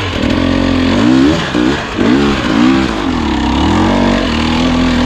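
Husqvarna TE250i two-stroke dirt bike engine blipped repeatedly at low revs, its pitch rising and falling several times, then held steady near the end, as the bike is worked through a tight pivot turn.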